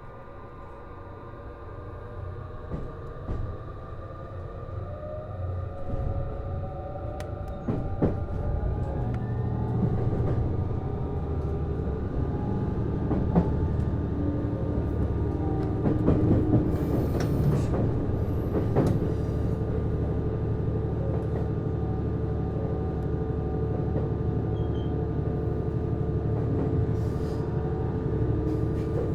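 Onboard running sound of a JR East HB-E210 series hybrid diesel railcar pulling away and gathering speed. Its Hitachi IGBT-VVVF traction inverter whines, rising in pitch, over a growing low rumble from the Komatsu DMF15HZB-G diesel engine-generator, with the wheels clicking over rail joints. The sound grows steadily louder.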